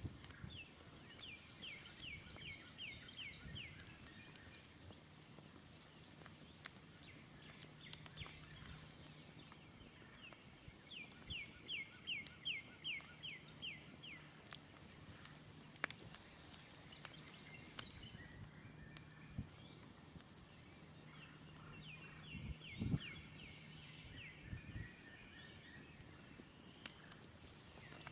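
A songbird sings a fast series of short downward-sweeping notes, about three or four a second, repeating the phrase three times about ten seconds apart. Scattered sharp crackles of a smouldering campfire and a faint low steady hum run beneath.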